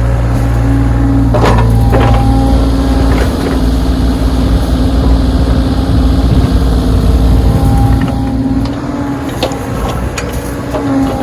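Backhoe's diesel engine running steadily while it works snow, with a few sharp knocks from the machine, a pair near the start and a pair near the end.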